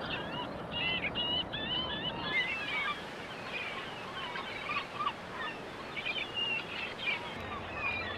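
A flock of seabirds calling over one another, many short overlapping calls in a dense chorus, over a steady rushing background.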